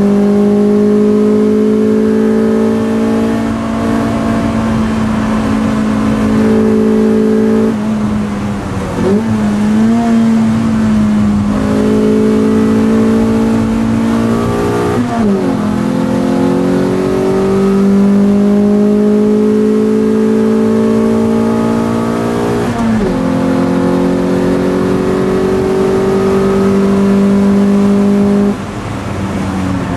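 Toyota MR2 race car's engine heard from inside the cabin, pulling hard with its note climbing slowly through each gear. The note is broken by quick gear changes about a quarter, a half and three quarters of the way in. Near the end it drops and quietens as the throttle is lifted.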